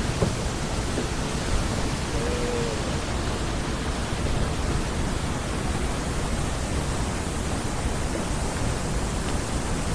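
Steady rushing hiss, like running water or wind on the microphone, with a couple of faint knocks just after the start.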